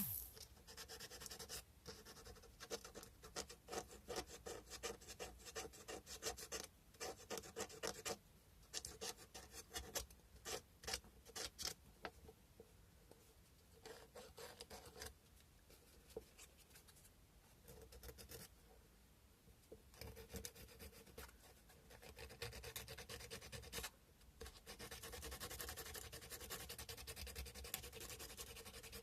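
Sandpaper rubbing on a cow-bone carving: quick, faint back-and-forth sanding strokes in spells, broken by a few short pauses.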